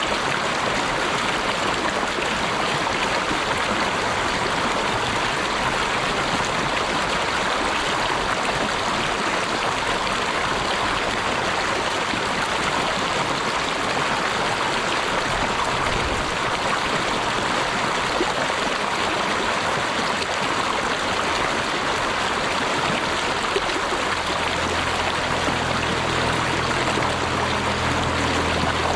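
Steady rushing of flowing water, like a stream, an even hiss that does not change.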